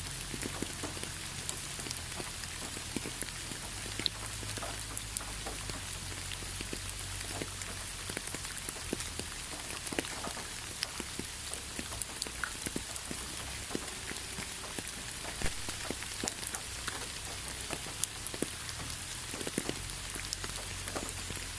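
Steady rain: an even hiss with many separate drops ticking sharply on nearby surfaces, over a low steady rumble.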